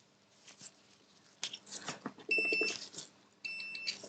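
Two short high beeps from a multimeter in continuity mode, each about half a second long, among light clicks of the probes on the board. The beeps mean the meter reads a short circuit on the PS5 motherboard's power rail.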